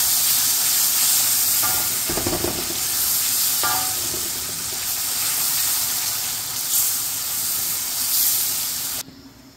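Onion and tomato masala sizzling as it fries in a karahi, with a wooden spoon stirring and scraping through it now and then. The sizzle cuts off suddenly about nine seconds in.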